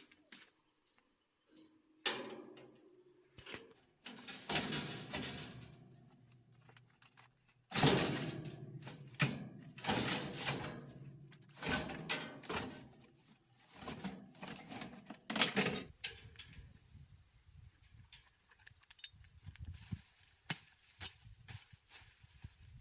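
Irregular knocks and clatter of hard objects being handled, with a run of loud scraping bursts between about eight and sixteen seconds in.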